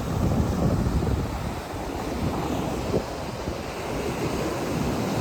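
Sea surf washing on the shore, with wind rumbling on the microphone in uneven gusts.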